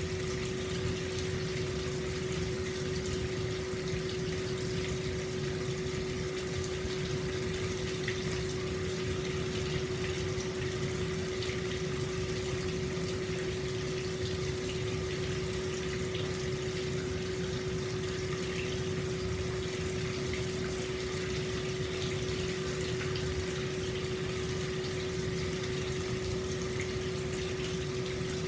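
Hot spring water pouring steadily into an open-air bath, with a constant low hum running through the splashing.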